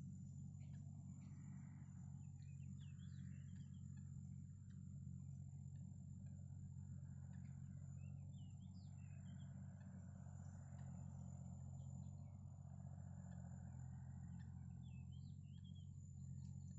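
Faint bird chirps in three short clusters of notes gliding up and down, over a steady low hum and a constant high whine.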